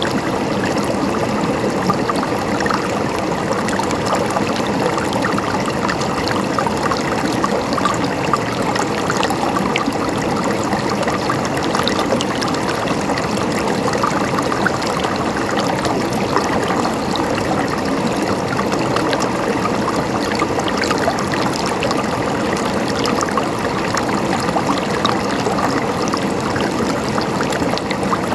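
Flowing water, a stream gurgling and trickling steadily.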